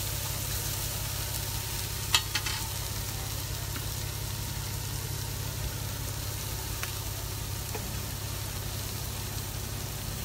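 Hash browns with onions and bell peppers frying with a steady sizzle on a propane gas cooker, over a steady low hum. A few sharp clicks about two seconds in, and two faint ticks later.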